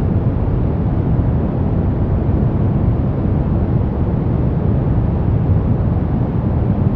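Steady synthetic brown noise: a deep, even rushing hiss, strongest in the low end and rolling off in the highs, with no changes or events.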